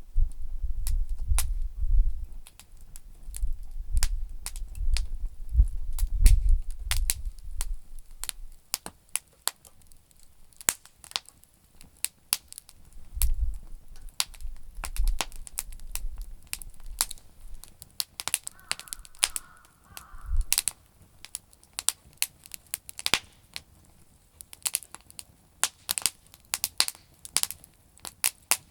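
Campfire of damp firewood crackling, with sharp pops and snaps several times a second. A low rumble runs through the first eight seconds and returns briefly near the middle. A crow caws a few times about two-thirds of the way through and once more at the end.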